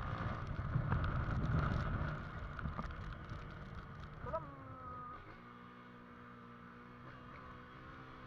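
Motorcycle engine noise, loud and rough for the first couple of seconds, then fading; from about five seconds in a quieter, steady idle hum.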